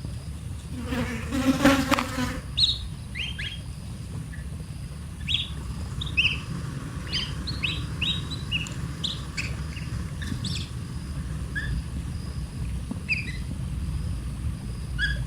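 Baby bird's short, high chirps, repeated irregularly over a steady low rumble. About a second in comes a louder low buzz lasting about a second.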